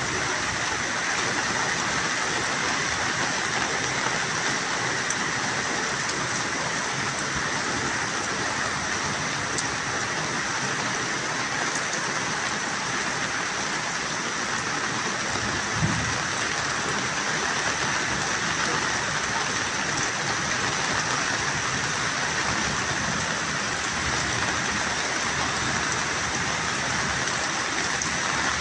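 Steady rain falling, an even hiss that does not let up, with one brief low bump about halfway through.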